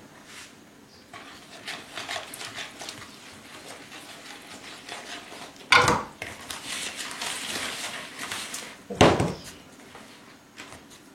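A woman sneezing twice, loud and sudden, about six and nine seconds in, with faint clinks and rustles of kitchen utensils and a mixing bowl between the sneezes.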